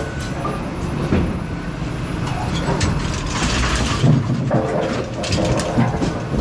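Brunswick pinsetter machinery running with a steady mechanical rumble, over which metal parts click, clank and knock at irregular moments; a louder rushing clatter comes about three seconds in.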